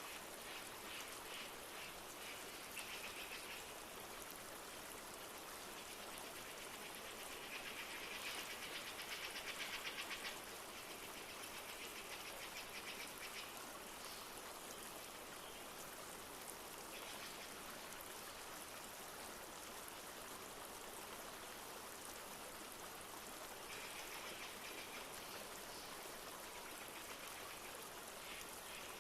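A river flowing steadily, with light rain falling. High, rapid trilling calls come and go several times over it and are loudest about a third of the way in.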